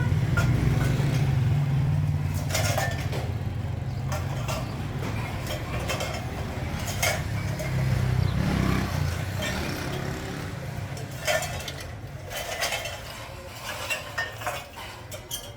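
Irregular light metal clanks and clinks, typical of aluminium kettle parts or sheet metal being handled. A motor vehicle's engine rumbles underneath and dies away a little past halfway.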